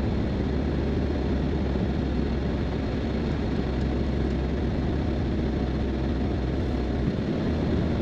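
A vehicle's steady low rumble, with an even haze of noise over it.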